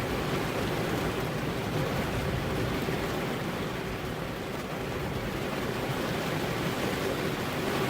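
Heavy rain falling steadily on a car's windows, an even wash of noise with no thunder.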